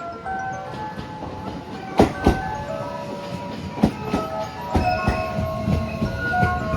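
Train running past on jointed track, its wheels clicking over the rail joints in pairs, the clicks coming thicker about five seconds in, with a tune of short notes playing over it.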